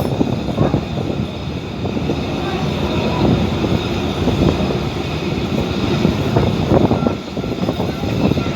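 Passenger train carriage running along the line: a steady rumble with frequent knocks and rattles, and indistinct voices now and then.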